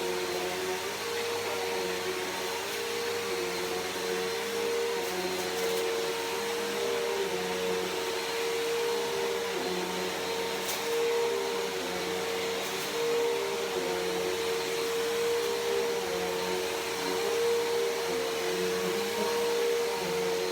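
Bissell PowerForce Helix Turbo upright vacuum cleaner running steadily, its motor holding an even tone that dips slightly now and then, with a few faint clicks.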